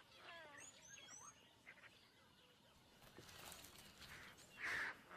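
Faint outdoor wildlife ambience with a few short bird chirps and falling calls in the first second or so, then quiet background hiss.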